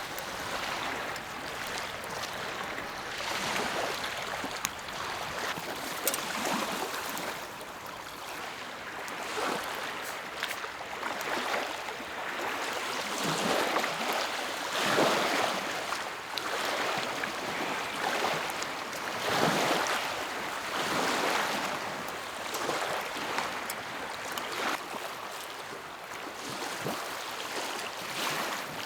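Small lake waves lapping at the shore, each wash swelling and fading every couple of seconds, with a few light clicks among them.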